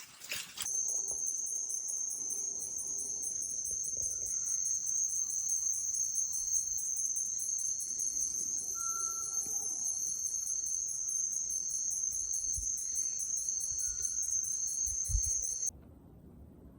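Jungle insects calling in a steady, high-pitched drone with a fast pulsing shimmer above it. The sound cuts off suddenly near the end.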